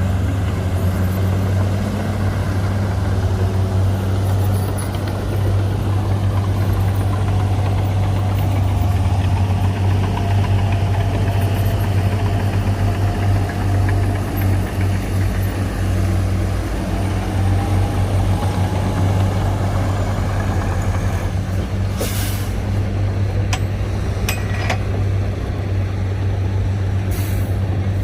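Bulldozer's diesel engine running steadily under load, a deep continuous hum with faint wavering whines. A few sharp metallic clanks near the end.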